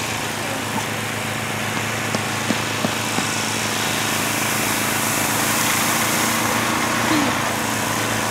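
Gas snowblower engine running steadily, growing a little louder partway through, with a few faint clicks about two to three seconds in.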